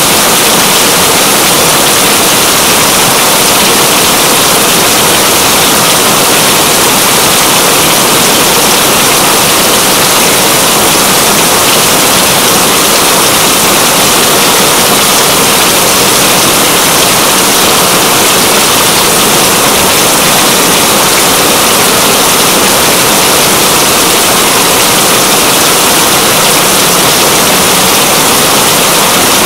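Steady, dense rain with a constant hiss.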